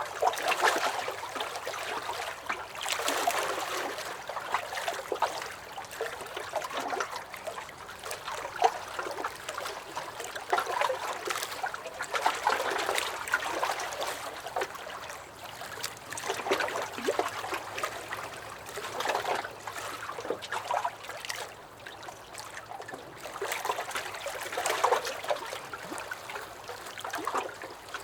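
Small lake waves lapping and sloshing against a dock, in uneven surges every second or two with brief lulls between them.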